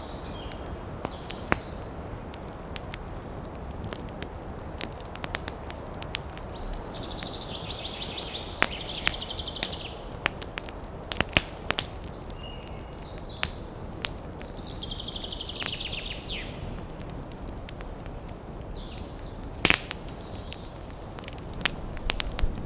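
Campfire wood crackling, with frequent sharp pops over a steady hiss, and a louder cluster of pops near the end. A high, rapid trill is heard twice from a wild creature, along with a few short high calls.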